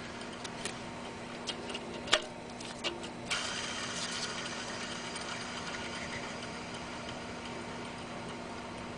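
Worn mechanical serpentine-belt tensioner pulley from a BMW E46 330i, a few clicks and then spun free about three seconds in. It runs on with a rough, dry whirring that slowly dies away: the sound of a failed bearing that has run dry. A steady low hum sits underneath throughout.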